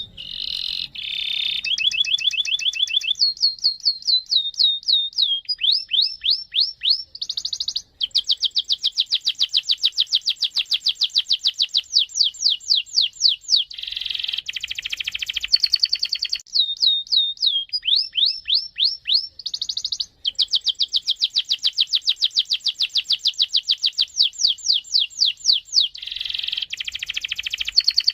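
Canary singing a long, continuous rolling song: fast trills and runs of rapidly repeated down-sweeping notes, the phrase changing every few seconds, with brief breaks about 8 and 20 seconds in.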